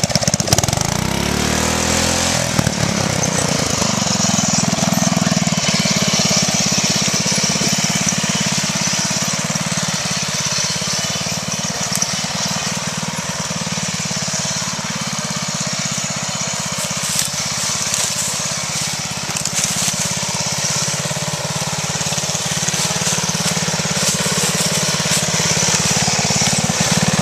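Riding lawn mower engine, modified for off-road riding, revving up in the first few seconds and then running steadily under way.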